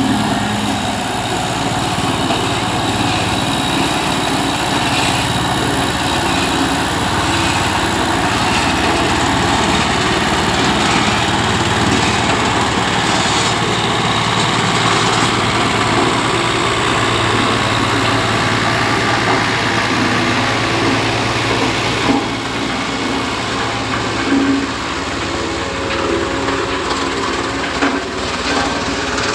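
Vehicle engine running steadily, with a few short knocks in the second half.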